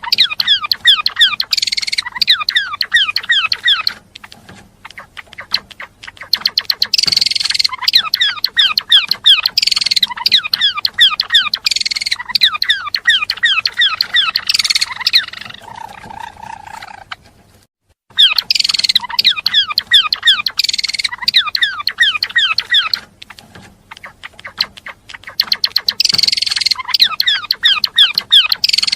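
Gelatik belong songbird singing in long, fast phrases of rapid repeated down-slurred chirps, broken by short pauses of a second or two.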